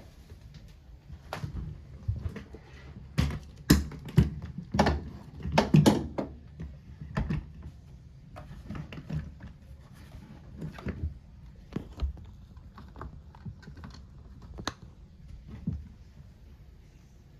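Irregular clicks, taps and knocks of something being handled, close together and loudest in the first six seconds, then sparser and softer.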